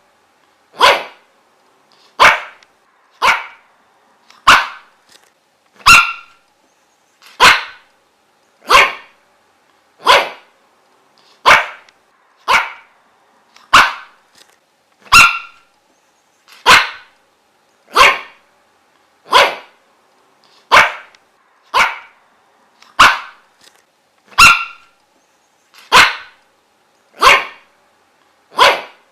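A dog barking over and over at a steady pace, single short barks about one every second and a quarter.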